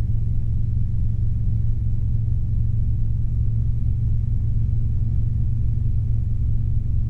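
Robinson R22 helicopter in flight, heard from inside the cabin: a steady low drone of the four-cylinder Lycoming piston engine and rotors, unchanging throughout.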